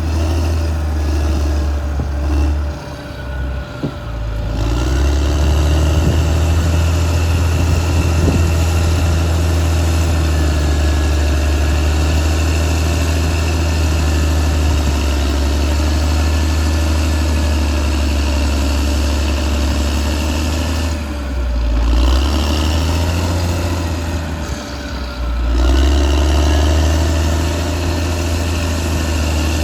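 Caterpillar D6R XL bulldozer's diesel engine running steadily under work. Its note drops twice, briefly a few seconds in and again about two-thirds of the way through, then picks back up.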